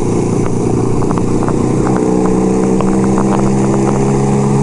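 1975 Kawasaki KZ400 parallel-twin motorcycle engine running steadily under way, its note shifting slightly about two seconds in.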